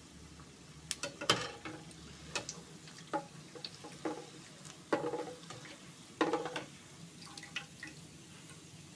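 Kitchen utensils knocking and clinking against a cooking pot, about seven separate strikes, some with a short metallic ring.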